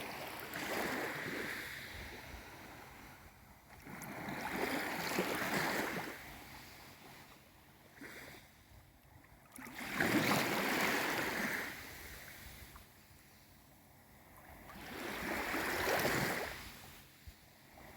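Small waves of a calm sea washing in, four slow surges of rushing water about five seconds apart, each swelling and fading away.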